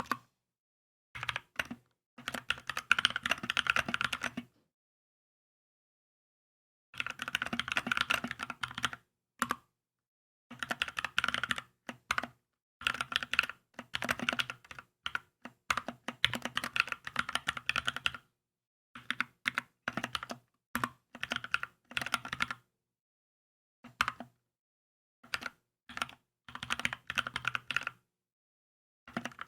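Typing on a Keychron K2 mechanical keyboard: quick runs of keystrokes broken by pauses, the longest about four and a half seconds in.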